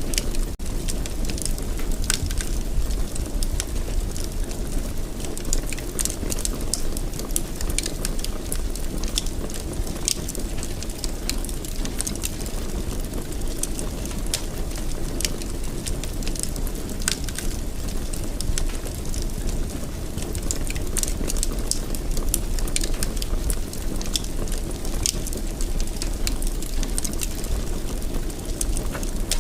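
Fire burning in a fireplace: a steady low rush of flames with frequent irregular crackles and pops.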